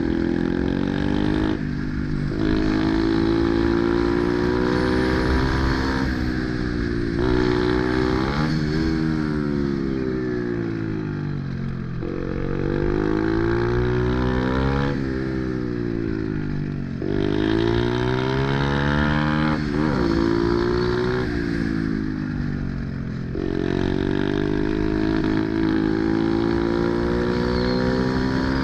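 Small-displacement pit bike engine ridden hard, revving up and falling back over and over, with short throttle-off gaps between pulls as it is worked through corners and gear changes.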